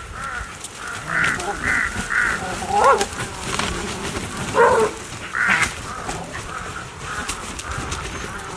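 Harsh bird calls repeated in quick bursts, about two a second, with two louder, lower calls that slide in pitch, one about three seconds in and one near five seconds.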